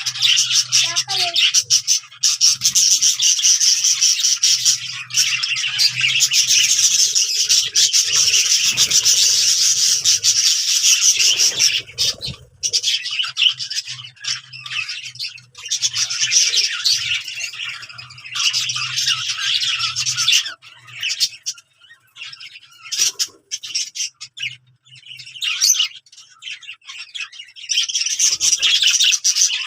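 Budgerigars chattering and warbling in a dense stream of rapid chirps. In the second half it thins out for several seconds to scattered chirps, then picks up again near the end.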